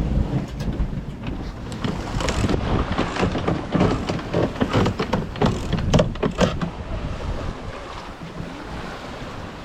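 Wind buffeting the microphone and sea water rushing past a sailboat under sail in choppy seas. For a few seconds from about a second and a half in, a dense run of short sharp knocks and clicks sits over the wash.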